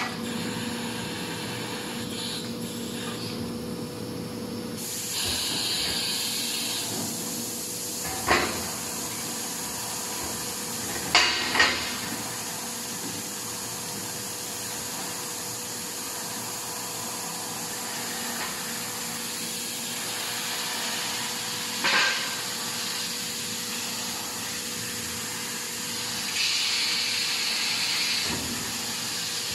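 Steady workshop machinery noise with a faint constant hum. Two hissing bursts, each a second or two long, come about five seconds in and near the end. A few sharp knocks are heard, two of them close together near the middle.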